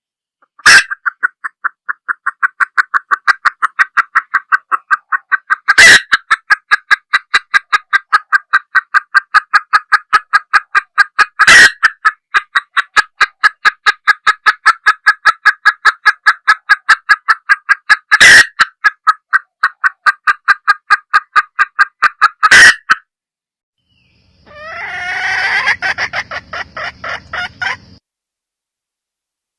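Red junglefowl hen clucking in a long, rapid, even series of about four clucks a second, with a louder sharp call roughly every six seconds. After a short pause, a briefer, harsher burst of sound near the end.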